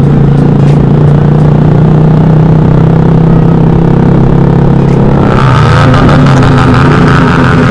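Motorcycle with a very loud exhaust running at a steady engine speed, then revving up from about five seconds in.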